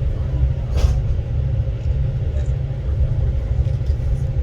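Steady low rumble of a moving passenger train, with a brief hiss about a second in.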